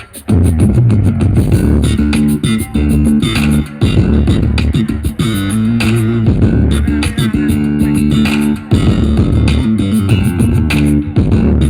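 Loud music played through a large outdoor sound system, with heavy bass and plucked guitar, and short breaks in the beat about 4 and 9 seconds in.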